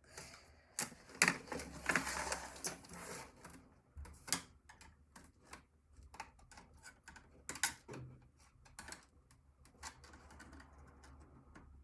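Irregular clicks, taps and small rattles of a screwdriver and plastic and metal computer parts being handled while an old computer is taken apart, busiest in the first few seconds, with a few sharper single clicks later.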